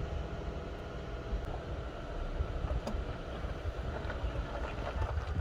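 Steady vehicle engine idling with a few faint even tones over it, under an uneven low rumble of wind buffeting the microphone.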